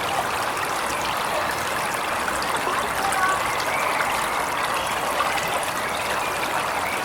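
Waterfall: a steady, even rush of splashing water.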